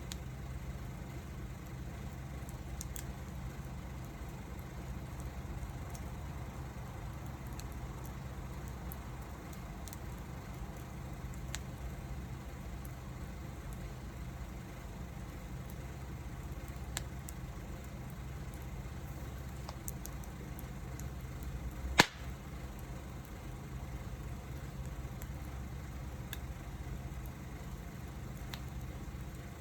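Wood fire burning, with scattered sharp crackles and one loud pop about two-thirds of the way through, over a steady low rumble.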